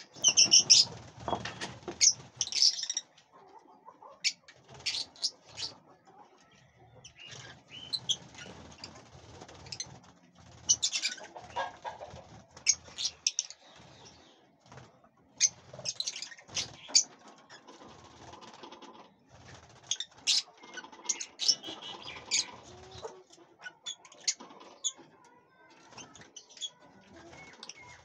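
Birds chirping and calling in short, high, scattered notes, busiest in the first few seconds.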